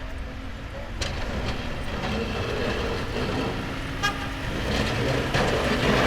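City street traffic: vehicle engines running, with a short horn toot.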